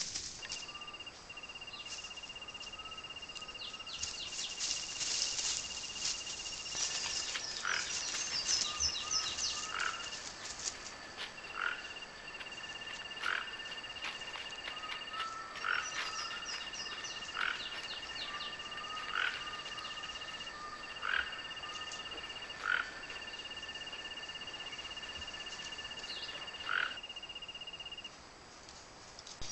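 Chorus of frogs and insects: steady high-pitched insect trills that stop and start, with short frog calls repeating every second or two.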